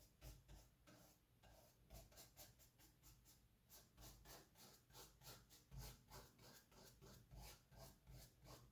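Faint scratching of a paintbrush's bristles on canvas in a run of quick, short strokes, several a second, as paint is dabbed on.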